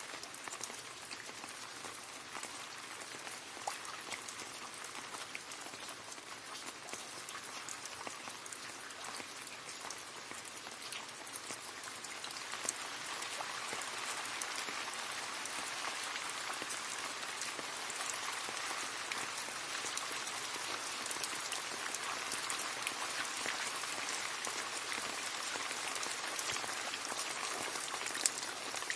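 Steady rain falling into a puddle, a dense hiss of splashing drops with many small distinct drips; it grows a little heavier about halfway through.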